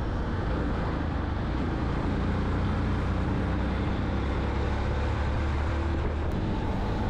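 Steady riding noise from a Yamaha FZ-X motorcycle cruising on the highway: wind rush and road noise over a low engine hum.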